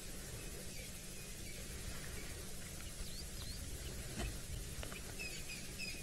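Faint outdoor ambience at a waterhole: scattered short, high bird chirps, more of them in the second half, over a steady low background rumble, with a soft click about four seconds in.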